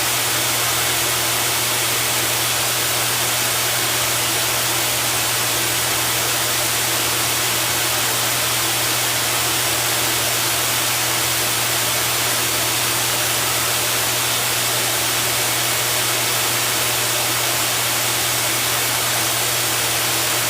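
Steady rush of air over a constant low motor hum: a pet grooming blower running without a break.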